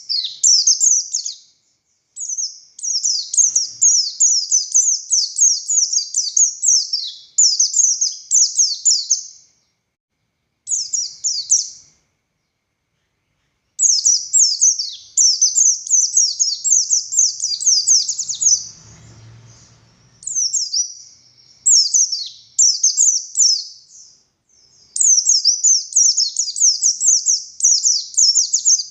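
White-eye (pleci buxtoni) singing a fast, high, twittering song: long runs of rapid chirps, each note sliding downward, broken by a few short pauses.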